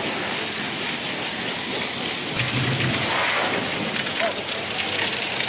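Steady hiss of a high-pressure water jet spraying onto the truck body during the wash.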